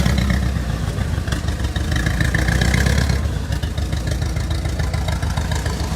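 A car engine running close by with a steady low rumble, as a car pulls out of the show lot at low speed.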